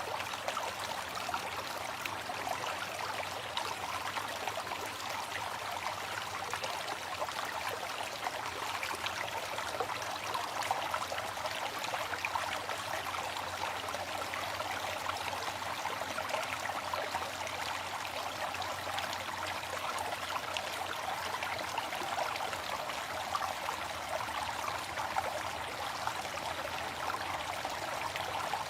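Waterfall: water falling and rushing in an even, unbroken hiss with little low rumble.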